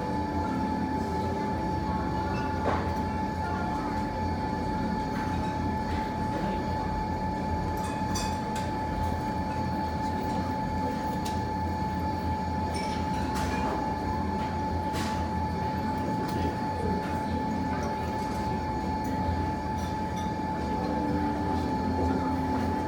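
Wood fire in a fireplace, giving an occasional sharp crackle or pop over a steady low rumble and a constant high hum.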